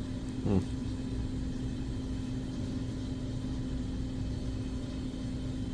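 Steady low mechanical hum with a constant tone, and a brief bit of voice about half a second in.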